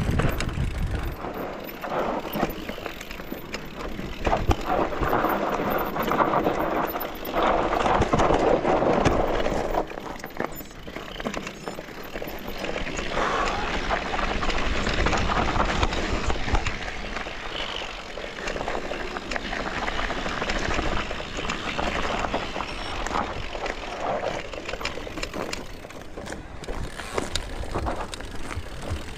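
Electric mountain bike riding down a dirt forest trail: tyres rolling over rough ground, with frequent knocks and rattles from the bike over bumps.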